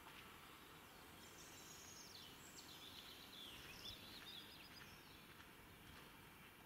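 Faint songbird warbling, a run of quick rising and falling notes over a low steady outdoor background hiss.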